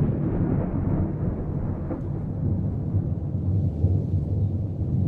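A deep, continuous rumble, heaviest in the low bass, holding fairly steady in level throughout.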